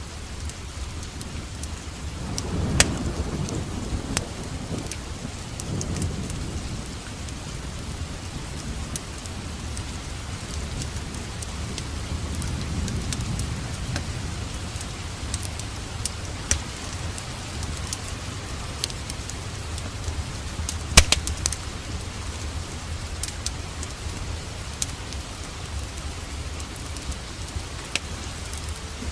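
Steady rain with a low rumble of thunder swelling up twice. Scattered sharp crackles and pops of a wood fire in a fireplace sound through it, the loudest pop about two-thirds of the way through.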